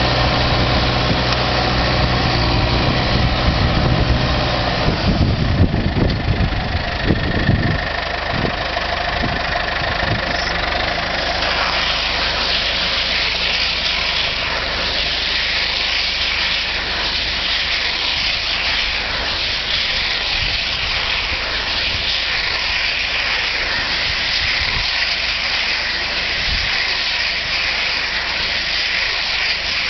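New Holland TS100A diesel tractor running with a Taarup Bio baler-wrapper: a steady engine note at first, a run of heavy knocks about five to eight seconds in, then a steady hiss over the engine for the rest.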